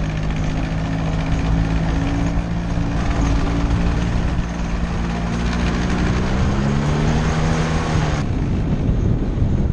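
Motor scooter engine running steadily while riding, with strong wind rumble on the microphone; the engine note drifts a little in pitch.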